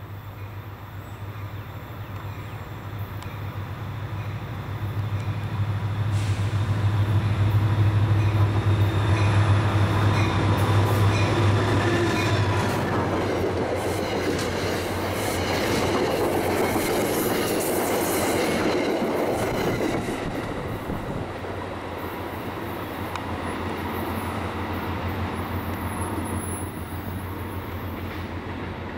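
NJ Transit diesel commuter train approaching and passing: a low engine hum builds and is loudest about six to twelve seconds in. Then the rushing and clatter of the coaches' wheels on the rails peaks around eighteen seconds in and falls away as the train moves off.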